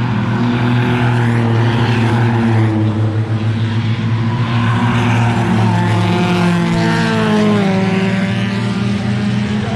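Four-cylinder race car engines running hard on a track, several engine notes at once. About five seconds in, one car's pitch glides down and then climbs again as it brakes and accelerates through a corner.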